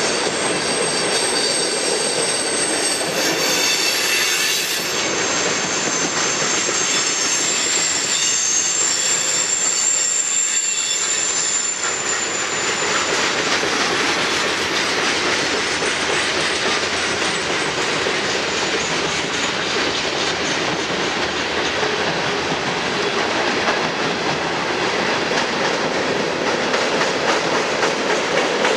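Freight cars of a mixed train (tank cars, covered hoppers and boxcars) rolling past, their steel wheels making a steady rumbling noise on the rails. A thin, high wheel squeal rides over it for the first dozen seconds or so, then dies away.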